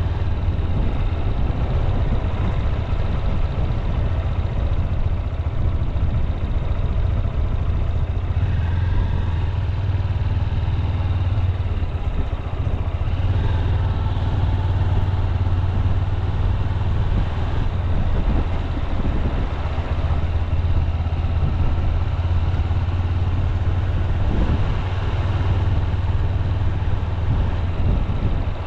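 Honda CB200X's single-cylinder engine running at a steady, unhurried cruise, a constant low hum with no marked revving.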